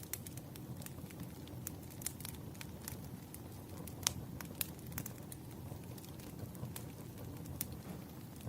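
Wood fire crackling: a steady low rumble of burning logs with irregular sharp pops and snaps. The loudest pop comes about four seconds in.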